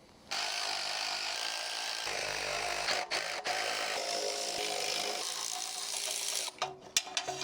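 Power tool running almost continuously with two brief breaks, undoing the bolts on the angle gear of a Volvo V8 drivetrain.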